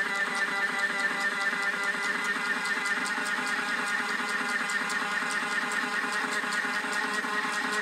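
Small electric motor of a battery-powered toy washing machine running, a steady whir with fixed tones that does not change.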